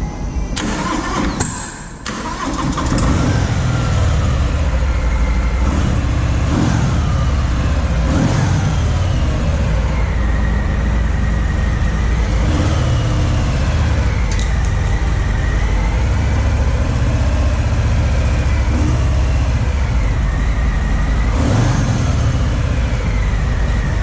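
Harley-Davidson Softail's 1745 cc Milwaukee-Eight 107 V-twin started with the keyless electric start: the starter cranks briefly, the engine catches about two to three seconds in, then runs steadily with several rises and falls in engine speed as the throttle is blipped.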